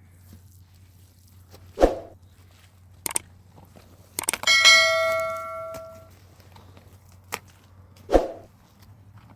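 A metal object is struck about halfway through and rings out with a clang that fades over a second or so. A few separate knocks and thuds come before and after it.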